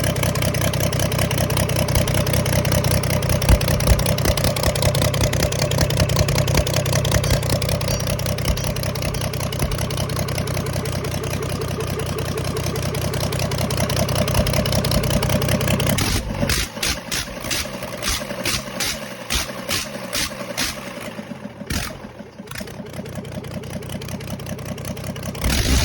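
Ashok Leyland 400 series diesel engine running steadily. About sixteen seconds in its low, steady sound drops away, leaving irregular knocks and clatter.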